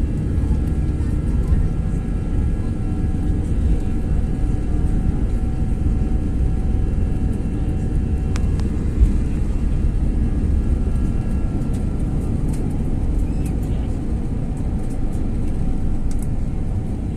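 Airbus A320's jet engines during takeoff: a steady, loud low rumble with a thin whine above it. The whine fades out about two-thirds of the way through.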